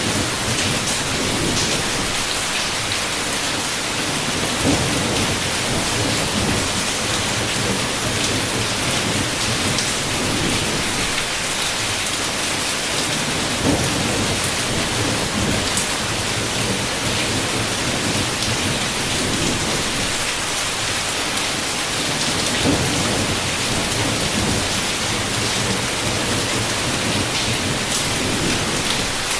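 Heavy rain falling steadily on a window, with thunder in the storm. A few brief louder moments stand out about 5, 14 and 23 seconds in.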